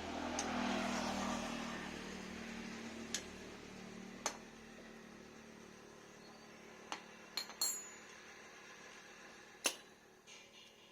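A low hum and hiss that fade over the first two seconds, then scattered sharp metallic clicks and clinks, about six, of tools and motor parts being handled at the workbench.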